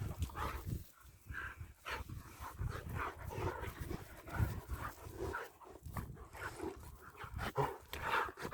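German Shepherd dogs making short, irregular breathy and small vocal sounds as they play close by.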